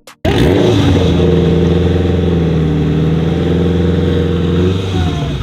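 Car engine revved up and held at a steady high rpm for about four seconds, then let back down near the end.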